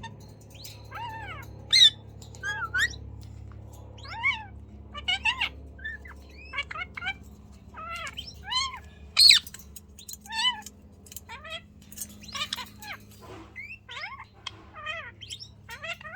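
Pet parakeet chattering: a long run of short, separate squawks and chirps, each rising and falling in pitch, coming irregularly one after another.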